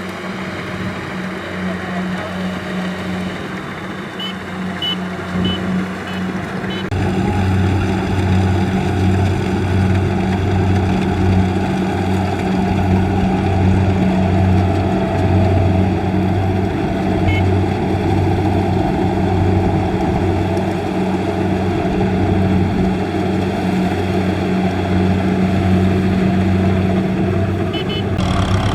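Kubota DC-70 combine harvester running steadily with its diesel engine and harvesting machinery at work, a constant low engine hum throughout. It gets louder about seven seconds in.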